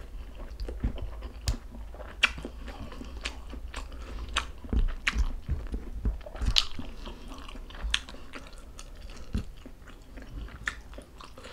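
Close-miked chewing of spicy stuffed squid adobo, with irregular sharp mouth clicks and smacks.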